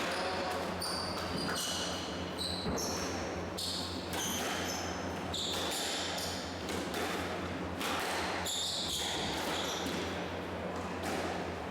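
Squash rally on an indoor court: the ball hitting racket and walls in sharp knocks, with players' shoes squeaking on the court floor in many short, high squeaks.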